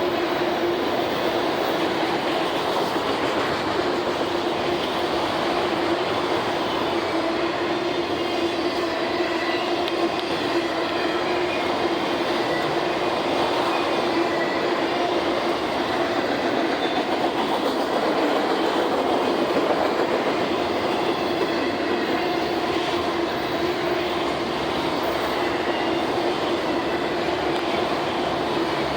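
Norfolk Southern freight train rolling past, a steady rumble of railcar wheels on the rails with a faint steady humming tone.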